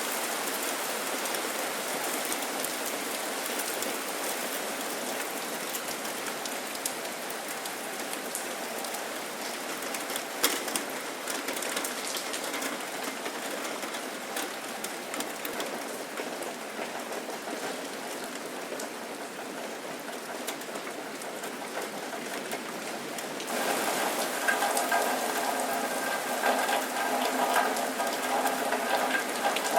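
Steady rain falling, with scattered sharp drops and drips. About three-quarters of the way through it grows louder and a steady humming tone joins it.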